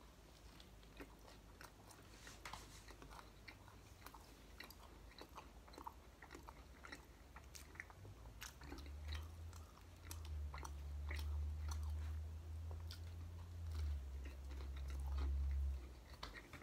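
Close-up chewing of a crunchy toasted French bread pizza crust, with many short sharp crackles and crunches. From about halfway a low hum comes in under the chewing and grows louder, stopping just before the end.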